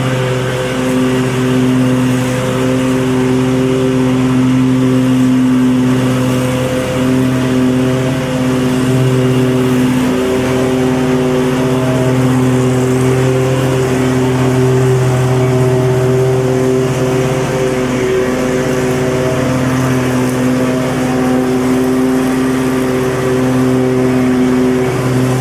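Lawn mower's small petrol engine running steadily at constant speed, a steady hum with slight wavers in pitch.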